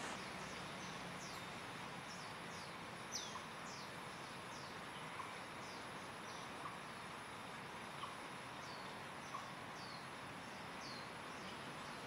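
A bird giving short, high chirps that slide downward, repeated irregularly about once or twice a second, over steady outdoor background noise.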